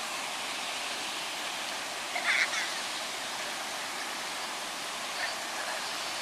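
Floodwater rushing in a steady hiss of flowing water, with a brief louder sound a little over two seconds in.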